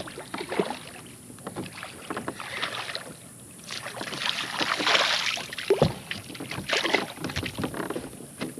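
Scattered knocks, clicks and splashes around a fishing kayak as a small hooked fish is brought in and handled, with a sharper knock about six seconds in.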